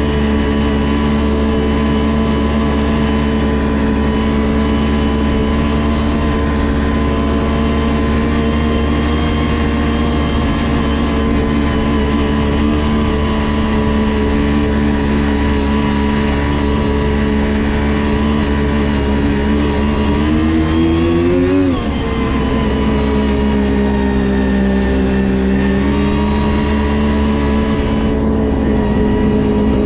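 Ski-Doo GSX 600 HO snowmobile's two-stroke twin engine running steadily under way on the trail. About two-thirds of the way through it revs up briefly, then drops off sharply and settles back to cruising, with a smaller rise and fall after.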